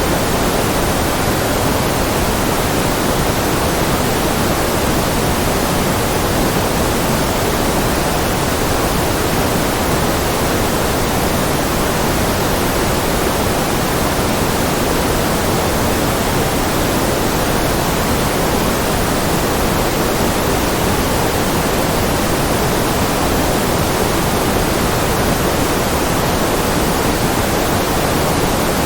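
Steady generated noise played as a white-noise track for concentration: an even, unchanging hiss with no events, its weight in the low and middle range rather than the highs.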